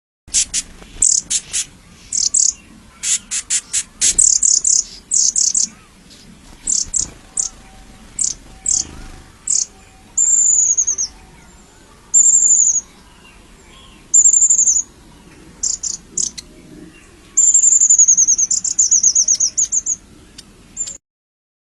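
Small birds chirping: a run of short, very high-pitched chirps, then from about ten seconds in longer slurred whistled notes repeated every couple of seconds.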